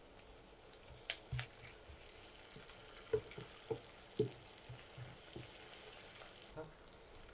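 Sliced onions and ginger-garlic paste frying faintly in oil in a karahi, stirred with a wooden spatula that knocks and scrapes against the pan a few times.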